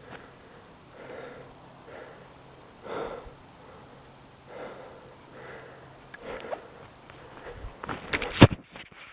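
Quiet, spaced-out steps and rustling of someone walking through forest litter, then a burst of crunching with one loud, sharp snap near the end.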